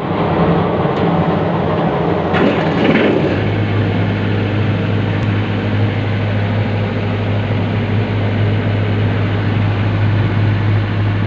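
Isuzu C240 four-cylinder diesel engine running. A louder, busier stretch in the first three seconds gives way to a steady, even low hum for the rest.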